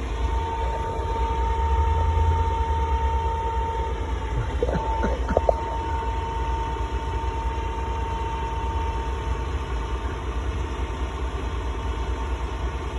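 Heavy engine idling steadily, a deep rumble with a steady whine over it that fades out about two-thirds of the way through.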